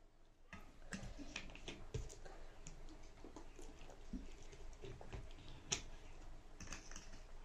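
A person eating spicy ramen noodles up close: wet chewing and mouth clicks with scattered sharp little clicks, starting about half a second in.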